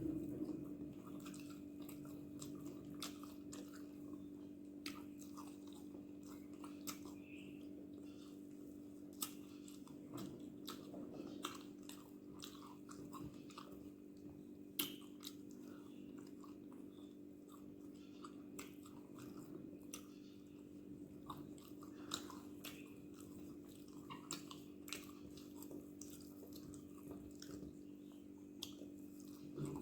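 A person chewing and eating dosa with chutney and curry: scattered wet mouth clicks and smacks at irregular intervals, over a steady low hum.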